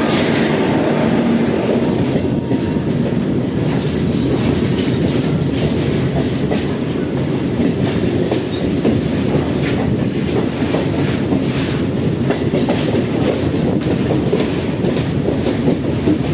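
MEMU electric multiple-unit train running along the line, a steady heavy rumble with its wheels clattering over the rail joints in repeated clicks.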